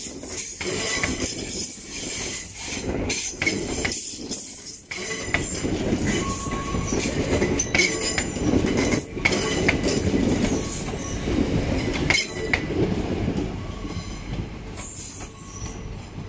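Hull Trains Class 802 Paragon train departing past the platform, its wheels squealing and clicking over the curving station track. The sound fades over the last few seconds as the rear coach moves away.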